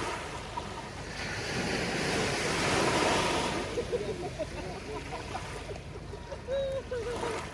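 Sea waves breaking on a sandy beach: one wave builds to a loud wash about two to three seconds in, then eases back into steady surf.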